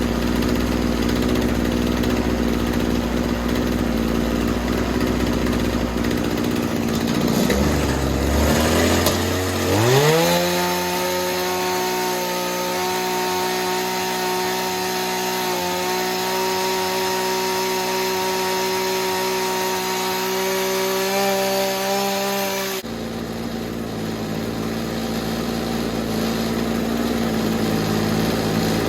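Small two-stroke engine of a Shindaiwa hedge trimmer idling, then throttled up with a rising whine and held at high revs for about thirteen seconds before it drops suddenly back to idle.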